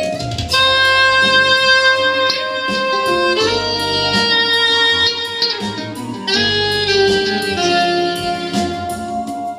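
Jazz tune played live: a melody instrument, likely saxophone, holds long notes that change pitch every second or few, over guitar accompaniment.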